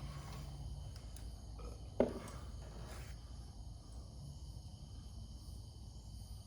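Quiet background of a steady low hum and a faint high-pitched insect-like drone, broken by one sharp knock about two seconds in.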